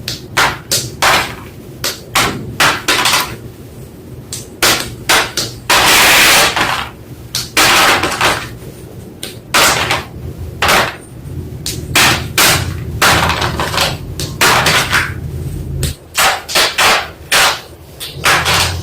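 White school chalk crunching and snapping close to the microphone: an irregular run of sharp, crisp cracks, with a few longer grinding crunches.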